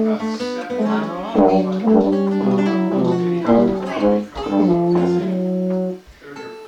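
Brass instruments playing a tune in held notes, with more than one part sounding at once; the playing pauses briefly near the end.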